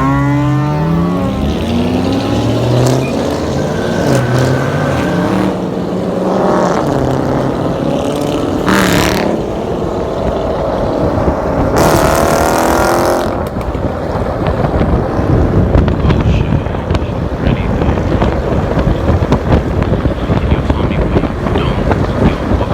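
Car engines revving: the pitch rises as one revs up at the start, two loud revs come around nine and twelve seconds in, and a rough, uneven engine rumble runs after that.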